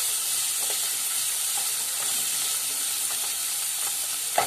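Sweet corn and chopped vegetables sizzling in oil in a nonstick kadai as they are stirred with a spatula, a steady hiss with a few light scrapes. There is a sharper knock of the spatula near the end.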